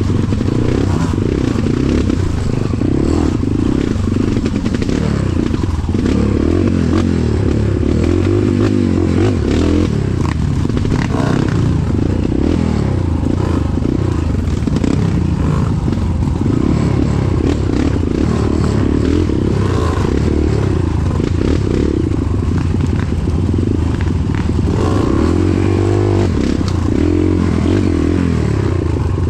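Motorcycle running steadily while being ridden, with continuous heavy low-pitched noise.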